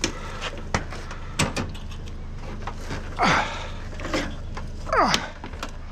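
Scattered knocks and clunks with two quick falling squeals of metal scraping, as an air conditioning unit is handled and slid along, over a steady low hum.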